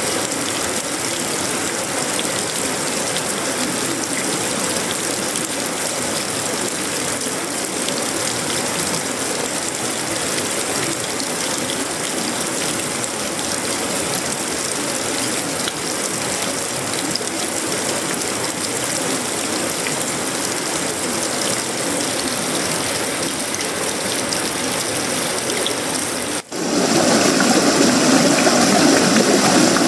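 Heavy tropical rain falling steadily on sheet-metal roofing, wood and leaves, a dense even patter. It cuts out for a split second about 26 seconds in and comes back louder and fuller.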